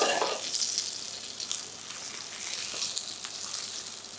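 Floured chicken breast frying in butter in a frying pan over medium-high heat: a steady high-pitched sizzle with small crackles, loudest at first and then easing off.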